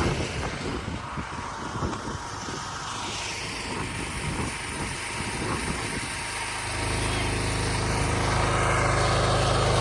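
Wind gusting and buffeting the microphone in the first outer bands of a hurricane, an uneven low rumble; about seven seconds in, a steady low engine hum sets in.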